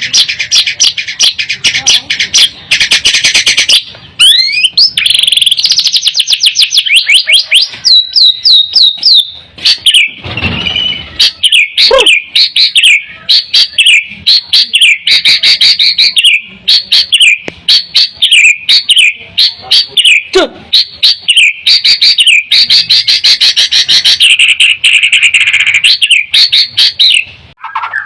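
White-rumped shama (murai batu) singing loudly and continuously: fast runs of repeated chips and trills broken by occasional slurred whistles.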